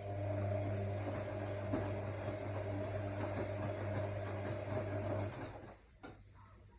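AEG Lavamat L62850L washing machine running an electric unit with a steady hum and water noise, which stops about five seconds in; a sharp click follows about a second later.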